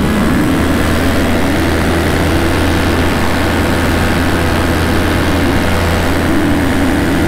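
Minari F1 two-stroke paramotor engine and propeller running steadily in flight, with a slight waver in pitch and a constant rush of wind noise.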